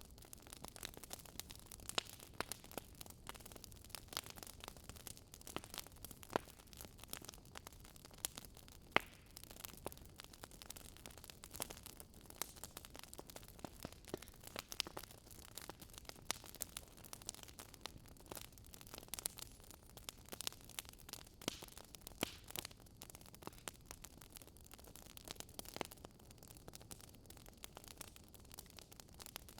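Wood fire crackling faintly, with irregular sharp pops and snaps over a soft hiss.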